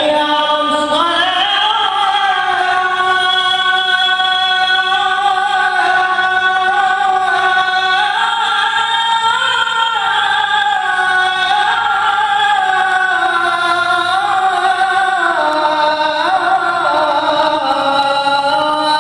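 A man calling the adhan, drawing out one long melismatic phrase that starts at the very beginning and moves slowly up and down in pitch without a break.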